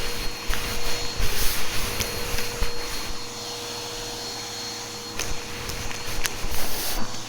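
Vacuum cleaner running with a steady whine. Its sound drops for about two seconds midway, then picks back up, with a few sharp clicks along the way.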